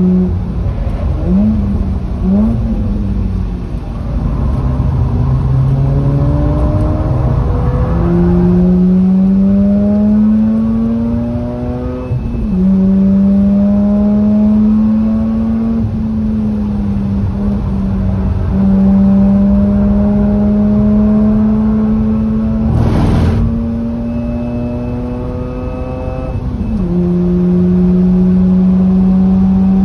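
Mazda RX-8's twin-rotor Wankel rotary engine, breathing through an aftermarket catback exhaust, driven hard on track: the engine note climbs steadily through each gear and dips briefly at each gear change, with a couple of quick throttle blips near the start. A short burst of noise cuts across it about three-quarters of the way through.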